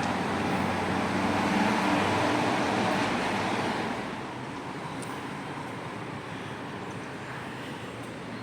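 Street traffic noise: a steady rush of passing vehicles, louder for the first few seconds and then dying down to a lower hum.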